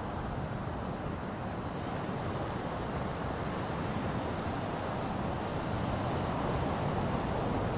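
Ocean surf: a steady wash of breaking waves, slowly growing louder.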